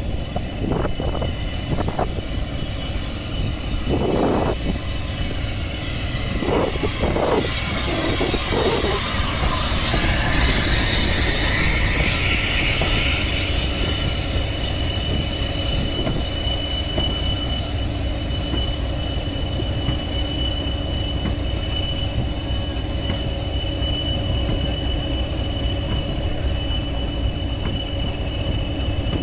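Train running on the line: a steady low rumble with a few knocks early on. A rushing hiss swells about ten seconds in, then gives way to a thin, steady, high wheel squeal that carries on to the end.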